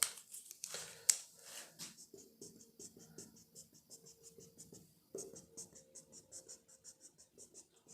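Marker pen squeaking and scratching across a whiteboard in many short, quick strokes.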